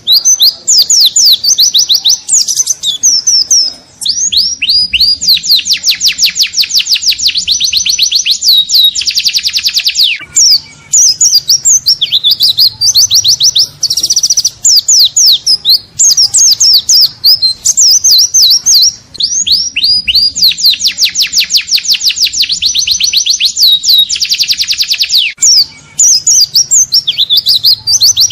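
Pleci (white-eye) song of the forest 'ngalas' type, used as a tutor recording to teach caged birds: loud, high, rapid runs of chirping notes broken by long fast trills. The same sequence of trills comes round twice, as in a looped recording.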